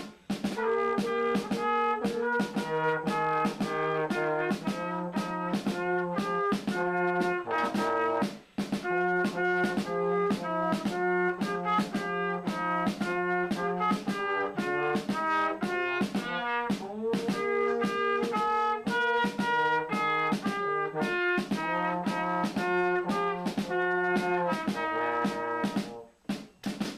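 Several band instruments playing a tune together in parts, with long held notes. The playing breaks off briefly about eight seconds in and stops near the end.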